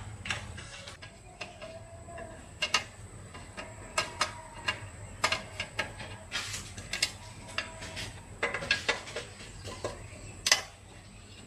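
Irregular metallic clicks and knocks of tools and small metal parts being handled, some ringing briefly, with the sharpest knock near the end.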